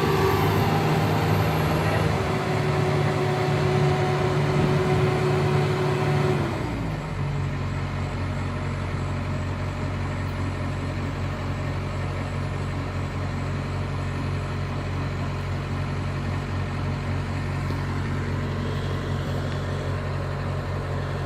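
Pickup truck engine running steadily with a low, even hum. About six and a half seconds in, a higher whine falls away and the sound settles slightly quieter.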